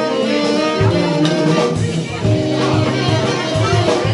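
Rock band playing: guitar over bass, with a steady beat.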